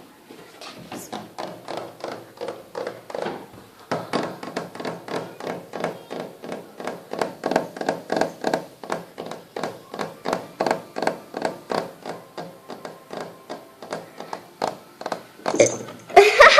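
Footsteps: a quick, steady series of light thuds, about three a second, as someone walks down stairs. Near the end there is a louder brief sound that falls in pitch.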